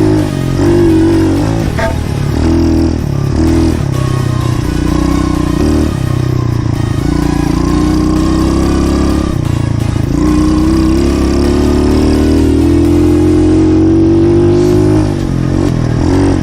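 Pit bike engine running under load as it is ridden, its pitch climbing and falling repeatedly with throttle and gear changes, then held in a long rising rev near the end.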